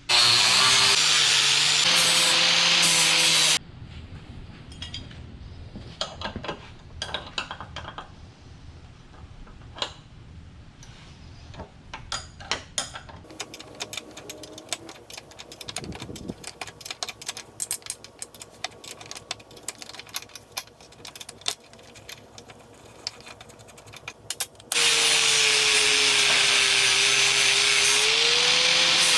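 Handheld electric power tool abrading rust and paint off a steel mower deck, its motor pitch sagging and recovering under load. It cuts off a few seconds in, and there are about twenty seconds of quieter scraping and clicking before it starts again near the end.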